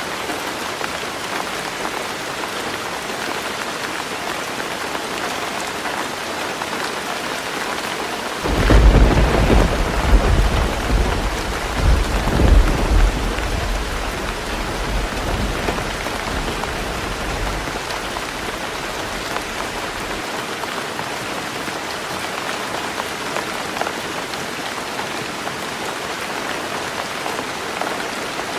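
Heavy rain falling steadily on a roof. About eight seconds in, thunder breaks out in a deep rumble that swells over the next few seconds and dies away over about ten seconds.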